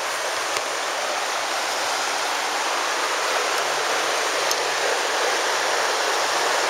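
The Virgin River rushing steadily over its bed: a continuous, even sound of flowing water.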